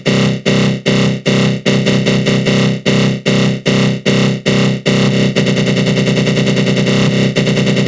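Synthesized attack growl sound effect: a loud, buzzing synth tone from the GMS synthesizer run through a flanger. It pulses about two and a half times a second, then about five seconds in turns to a fast, continuous flutter.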